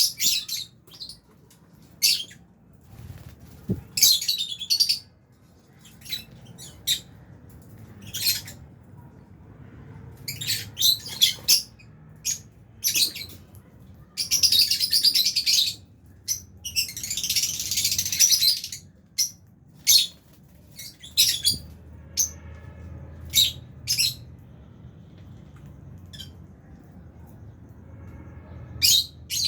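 Aviary of lovebirds chirping: many short, sharp, high-pitched calls at irregular intervals, with two longer, denser bursts of calling about halfway through.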